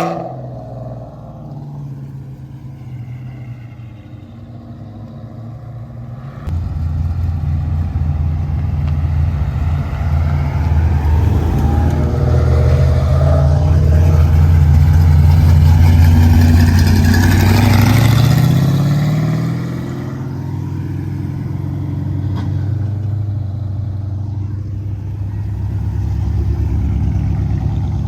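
Car engine running with a low, steady rumble that gets much louder about six seconds in, then revs up with a rising pitch near eighteen seconds before settling back to a quieter idle.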